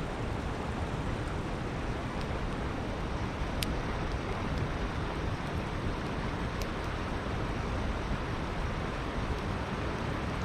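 Steady rushing of a river flowing, with a campfire crackling over it in a few sharp pops.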